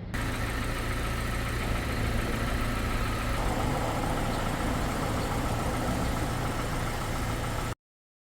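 Hyundai LF Sonata's engine idling steadily with the air conditioning running on a fresh refrigerant charge; the sound cuts off abruptly near the end.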